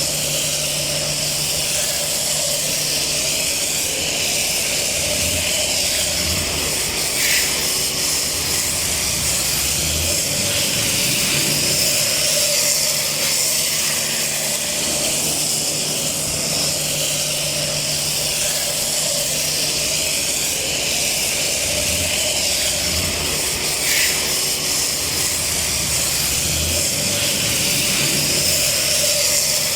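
High-pressure washer jet spraying a car, a steady hiss with a low hum under it.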